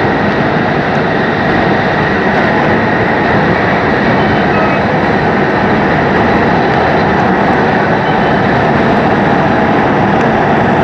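Steady running noise of a moving train.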